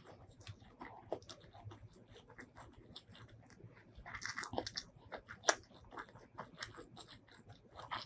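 Close-miked chewing of a mouthful of chicken biryani: a steady run of small wet mouth clicks and crunches, with a louder spell about halfway through.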